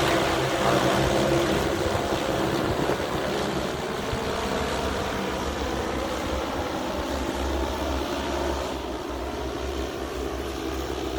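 Multirotor agricultural spraying drone flying, its propellers giving a steady droning hum that slowly grows fainter.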